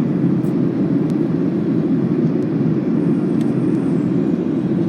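Steady cabin roar inside a Boeing 737-800 during descent: its CFM56-7B engines and the airflow over the fuselage, heard as an even low rumble.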